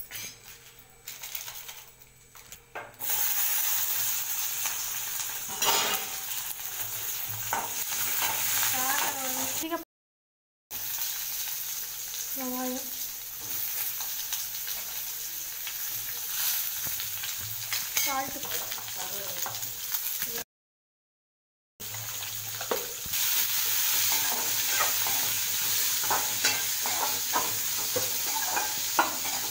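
Onions, garlic, curry leaves and dried red chillies frying in hot oil in an aluminium kadai, a steady sizzle with the clicks and scrapes of stirring against the pan. The sizzle is quiet at first and grows much louder about three seconds in; it breaks off twice into brief silence.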